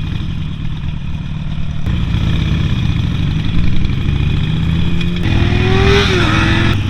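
Motorcycle engine running and accelerating, its pitch climbing from about two seconds in. A louder, higher engine note comes in about five seconds in, rises, then drops back.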